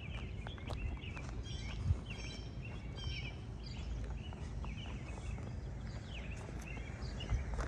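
Songbirds chirping and singing in short repeated phrases over a steady low rumble, with a few crunching footsteps on gravel.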